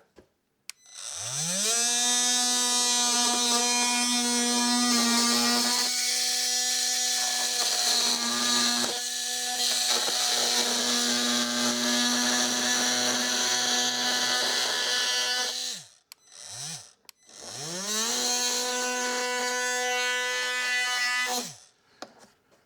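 Ryobi oscillating multi-tool spinning up and running at a steady high-pitched buzz while it cuts into a motorhome's plastic cover. It stops after about fifteen seconds, then runs again for a few seconds near the end.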